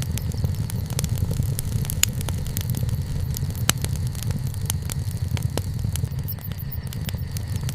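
Wood bonfire burning, with a steady low rumble under frequent sharp, irregular crackles and pops.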